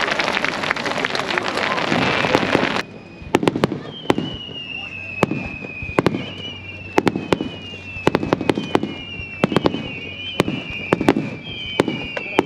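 Fireworks crackling: many sharp, irregular pops, with a high whistling tone that slides downward again and again. A dense hiss in the first few seconds cuts off abruptly about three seconds in.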